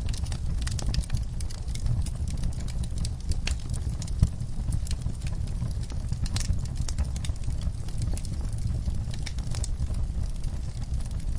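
Wood fire crackling in a fireplace: a steady low rumble of burning with irregular sharp pops and snaps, one louder pop about four seconds in.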